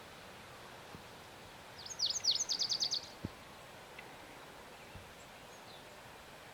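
Lazuli bunting singing one short phrase of about a second: a few sharp downslurred notes, then a quick run of repeated notes.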